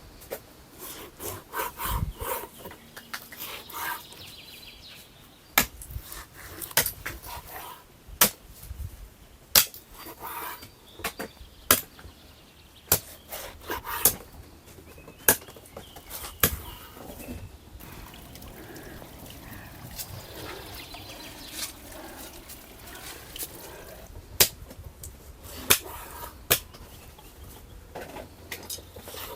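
A series of sharp knocks, struck irregularly about once every one to two seconds, with birds chirping faintly in the background.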